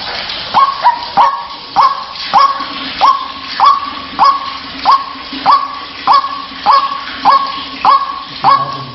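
White-breasted waterhen (ruak-ruak) calling in a steady, regular series, about one and a half calls a second, each call a short upward sweep that holds briefly at its top.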